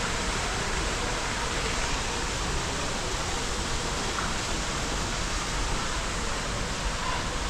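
Steady, even rushing noise with no rhythm or pitch, like running water or moving air.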